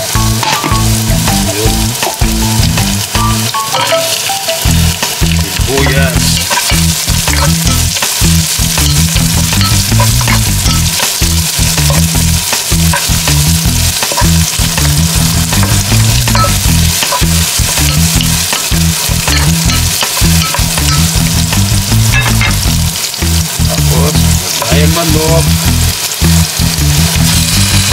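Chopped garlic and onion sizzling in hot cooking oil in a pan, stirred and scraped with a wooden spatula.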